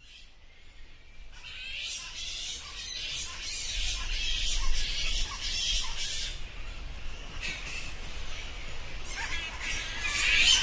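A chorus of many animals squawking and screeching at high pitch, overlapping in a dense chatter that grows louder over the first few seconds.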